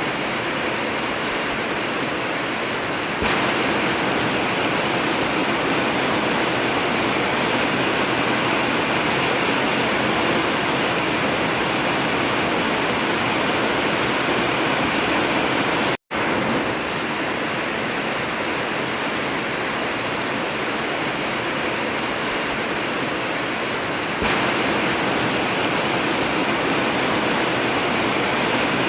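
Heavy rain drumming steadily on an old zinc (tin) roof, a dense even hiss. It gets louder about three seconds in, cuts out for an instant around the middle, and gets louder again near the end.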